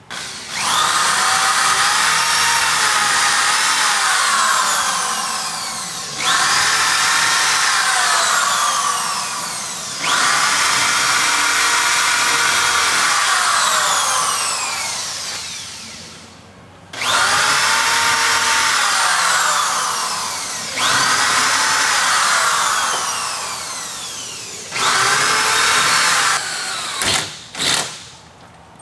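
Power drill boring anchor holes in about six runs of a few seconds each, its pitch rising as it spins up and sagging toward the end of each run. Near the end come two short trigger blips.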